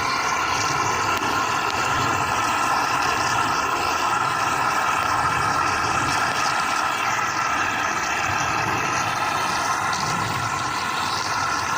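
A steady mechanical drone with several held high tones, unchanging throughout.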